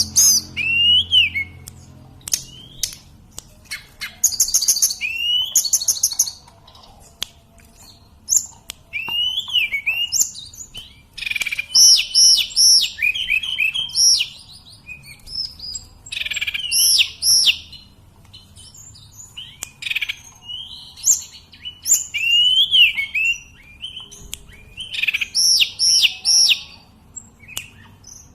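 Tledekan gunung (sulingan gunung) singing a run of clear whistled phrases with short pauses between them. Each phrase mixes quick high repeated notes with lower notes that slide up and down in pitch.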